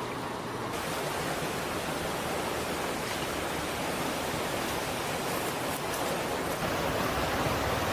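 Steady rushing of flowing river water, an even hiss that turns fuller and brighter just under a second in.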